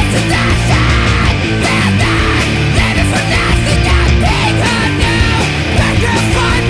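Studio recording of a post-hardcore / indie rock band playing at full, steady loudness: electric guitars over bass guitar and drums.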